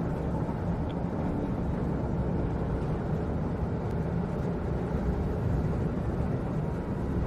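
Steady low rumble inside a moving passenger vehicle.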